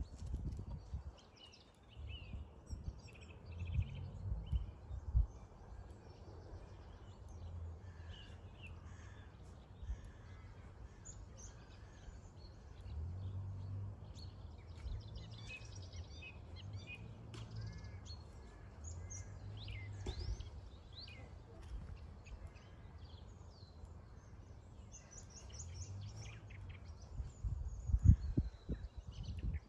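Several birds chirping and calling in short notes and trills over a low rumble of breeze on the microphone, which gusts louder near the end.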